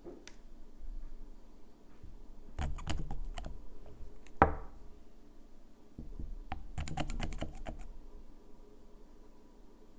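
Quick runs of light clicking and tapping from manicure items being handled on a hard surface, in two bursts, with one sharper clack in between that rings briefly.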